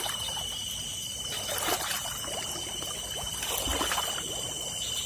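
Shallow rice-paddy water splashing and trickling in small irregular splashes, over a steady high-pitched tone.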